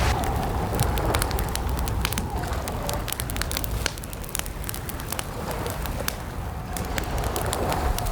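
Campfire crackling, with irregular sharp pops and snaps over a steady low rumble of the burning wood. A faint cooing bird call sounds near the end.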